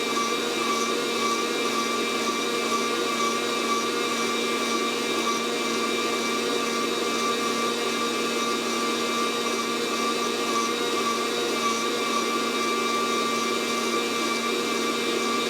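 Fresh Roast SR800 fluid-bed coffee roaster running mid-roast, its fan blowing hot air through the beans with a steady whir and a constant motor whine. The beans are at about 390–400 degrees, right at the edge of first crack, with only one crack heard so far.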